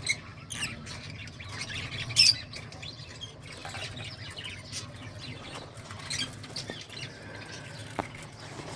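A group of lovebirds chirping and squawking in short, sharp, high-pitched calls, the loudest a little over two seconds in, over a steady low hum.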